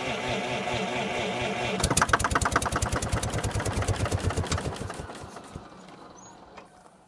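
The 1951 Tractomotive TD-5 crawler loader's engine being cranked by its starter, then catching about two seconds in and firing in a rapid run of loud pops for about three seconds before it dies and winds down. A failed start after eight years of sitting, getting close to running.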